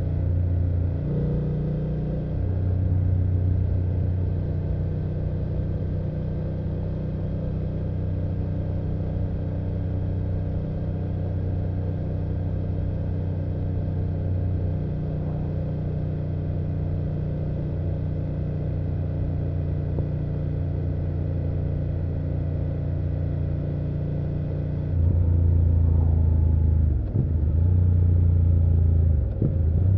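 2024 BMW F800GS parallel-twin engine and exhaust running at a steady cruise. About 25 seconds in it gets louder as the throttle opens, with two brief dips in pitch and loudness, like gear changes.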